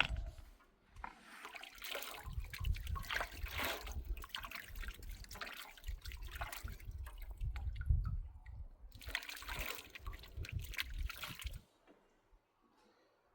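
Water pouring and splashing in an uneven stream with a low rumble under it, stopping near the end.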